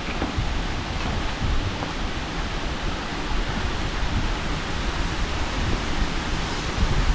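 A steady rushing noise with no speech.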